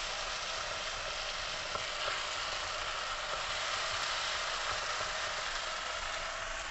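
Diced potatoes and tomatoes frying in oil in a non-stick pan, a steady sizzle with faint crackles while a silicone spatula stirs them.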